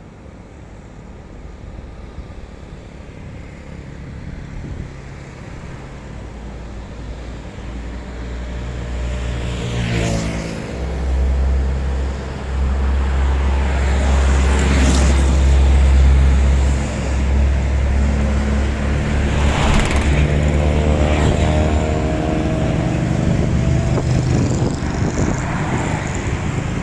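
Truck diesel engine labouring up a hill, growing louder as it approaches and stays close. Its pitch shifts several times, with a few brief sharp noises along the way.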